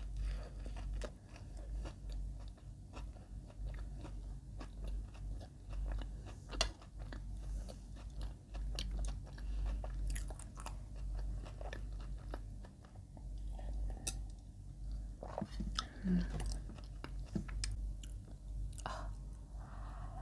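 Close-miked chewing of soft white sandwich bread spread with Lotus Biscoff and Ovomaltine crunchy spread: wet mouth sounds with many small sharp crunchy clicks, with bites near the start and the end.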